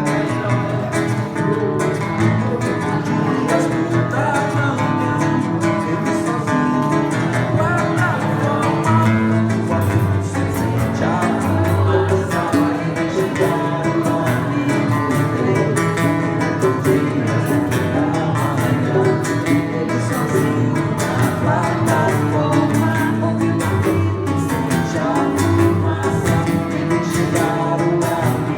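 Live Brazilian acoustic group playing: violão (acoustic guitar) strummed and picked under singing, with hand percussion from bongô, pandeiro and congas keeping a steady beat.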